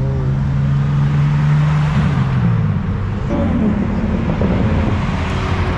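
Car engine at high revs, its pitch climbing slightly and then falling away about two seconds in.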